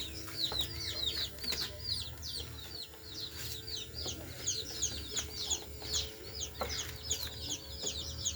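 Many birds chirping without pause, short high chirps that drop in pitch several times a second, over a steady low hum.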